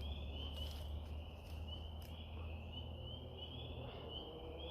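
An outdoor chorus of short, high chirps repeating two or three times a second, over a steady low rumble.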